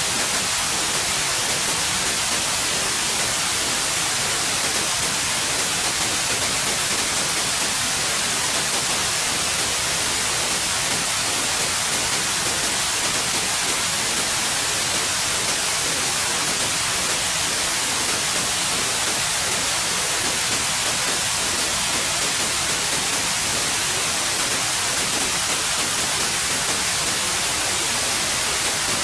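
Steady white noise: an even hiss that never changes, strongest in the treble.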